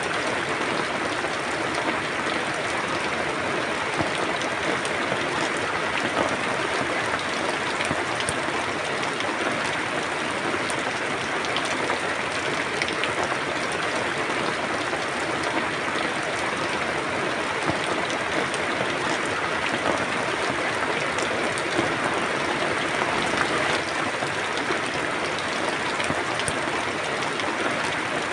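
Steady rain falling, a dense even hiss of drops with many small individual drop ticks on a hard surface.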